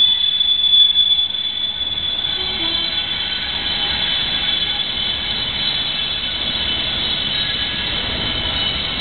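NIR sandite train running past on a far track, a steady rumble with a high-pitched whine on top that is strongest in the first second or so.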